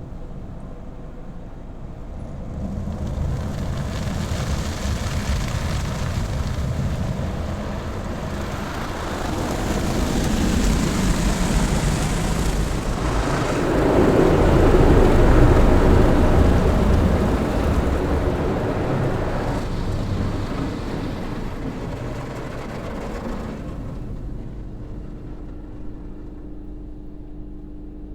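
Automatic car wash machinery passing over the car: a loud rushing noise that builds over several seconds, peaks midway, then dies away.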